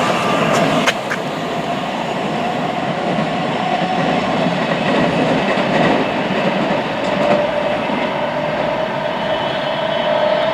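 Train running through on the line below, a steady rush of wheel and rail noise with a held whine. A couple of sharp clicks come about a second in.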